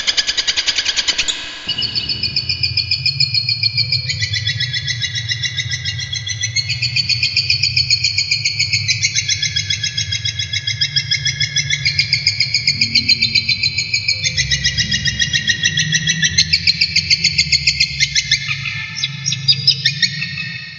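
Cendet (shrike, Lanius cristatus) singing a long, unbroken song of very rapid repeated notes, rattling trills that jump up and down in pitch in steps, with a steady low hum underneath. The song dies away just at the end.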